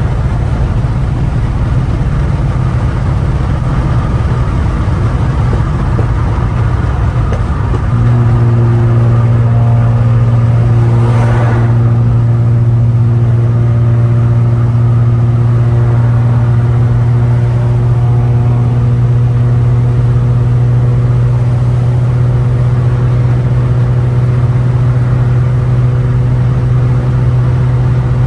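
Straight-piped, catless exhaust of a 2015 Ford Taurus Limited at highway speed. It settles into a loud, steady, one-pitch drone about eight seconds in, with a brief whoosh a few seconds later.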